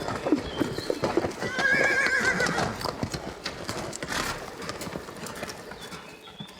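Horse hooves clip-clopping, with a quavering whinny from the horse about a second and a half in; the sound fades toward the end.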